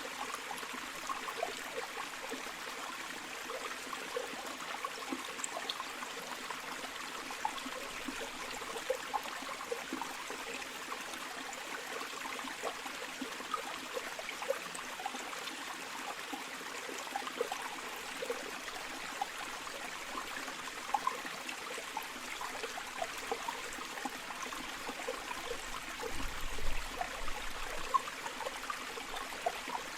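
River water flowing steadily over stones, a continuous rushing with many small plops and splashes through it. A brief low rumble comes in near the end.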